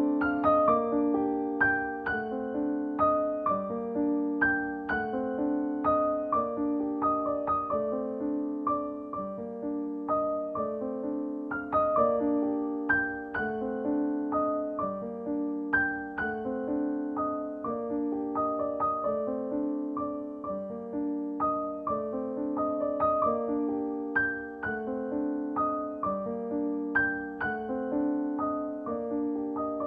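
Background piano music: a gentle repeating pattern of notes.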